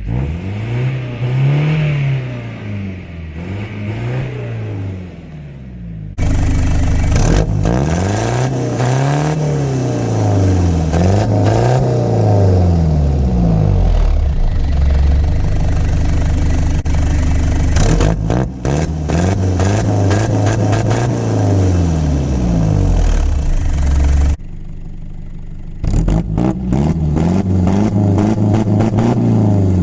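Toyota HiLux 3.0 L four-cylinder diesel engine being revved through a homemade exhaust, blipped over and over so that the note rises and falls about every two seconds. The sound changes abruptly a few times, and near the end the engine clatters under the revs.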